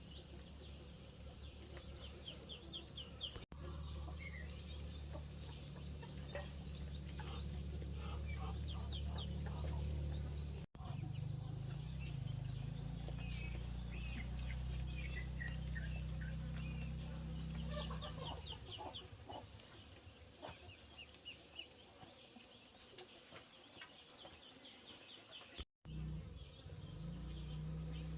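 Chickens clucking with many short high peeps scattered throughout, over a steady low rumble through much of the middle and again near the end.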